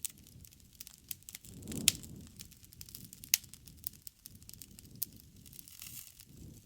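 Wood fire crackling in a fireplace: irregular snaps and pops over the low rumble of the flames, with two sharper pops about two seconds in and a little after three seconds in.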